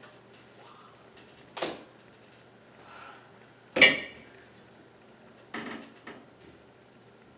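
A few sharp knocks or clunks about two seconds apart, the second the loudest, like objects or furniture being handled in a small room.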